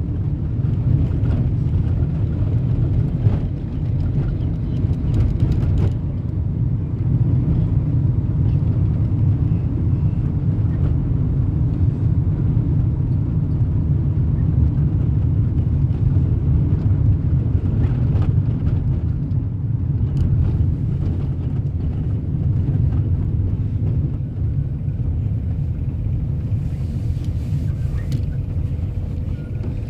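A car driving along a road, with a steady low rumble of engine and tyre noise.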